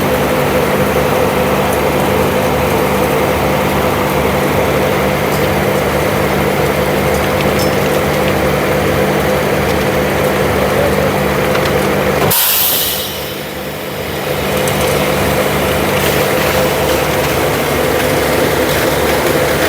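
Heavy engine of a remote-controlled construction machine running steadily. About twelve seconds in there is a short hiss, and the engine dips briefly before picking back up.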